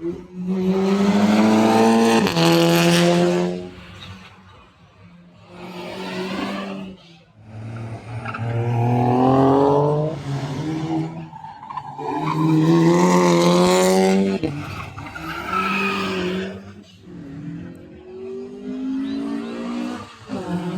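Cars racing around a street circuit, engines revving hard and rising in pitch through the gears as they accelerate past one after another, several times, with some tyre squeal.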